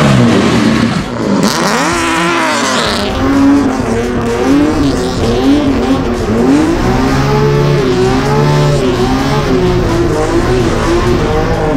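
Heard from inside the cabin, a drift car's engine revs up and down again and again through a drift run, with tyres squealing, most plainly in the first few seconds.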